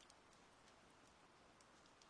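Faint, steady rain with scattered light drop ticks.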